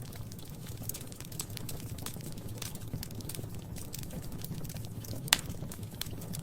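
Wood fire crackling in a fireplace: a steady low rumble under scattered sharp crackles, with one loud pop a little past five seconds in.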